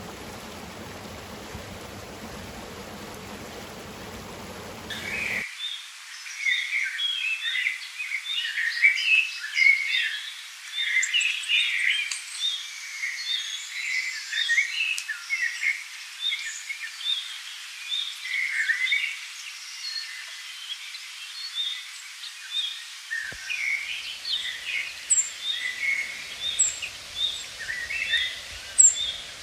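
Steady rushing of a flowing stream for about five seconds, then an abrupt switch to a dense chorus of songbirds chirping, with many short, quick calls overlapping. Thin high notes join in near the end.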